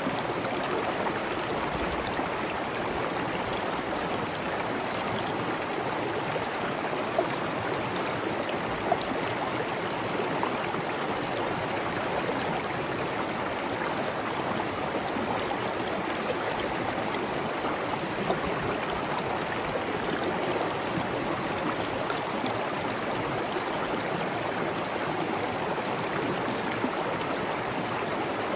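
Running water of a stream, flowing and babbling steadily, with a few brief louder spots.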